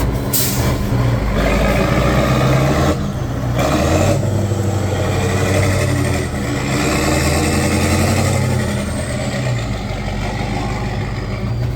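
Heavy off-road truck's diesel engine running and working under throttle, its note rising and easing off. A brief sharp hiss comes near the start.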